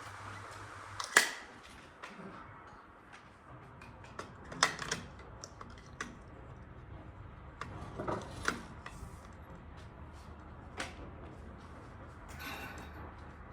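Irregular knocks and clicks of wooden parts and hand tools being handled. There is a sharp knock about a second in, clusters of knocks around five and eight seconds, a single click near eleven seconds, and a brief scraping sound near the end.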